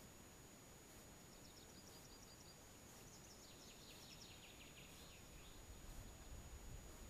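Faint birdsong at dawn: a short run of rapid high notes about a second in, then a longer, slightly lower run from about three seconds in. A low rumble comes up near the end.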